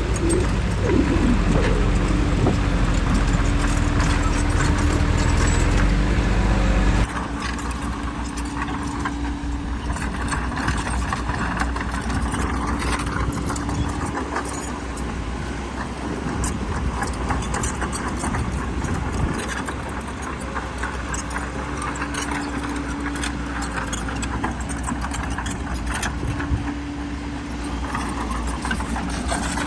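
Bulldozer's diesel engine running heavily with a steady whine. About seven seconds in the sound changes abruptly, and dense clanking and rattling of steel tracks and stone runs over the engine.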